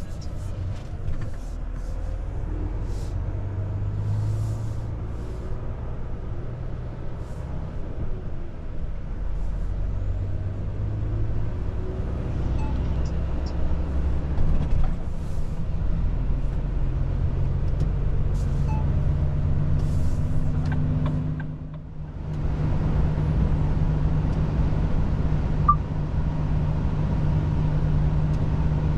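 Volvo FH truck's diesel engine droning with road rumble, heard from inside the cab. The engine note steps higher partway through and holds there. The sound dips briefly about 22 seconds in before coming back steady and a little louder.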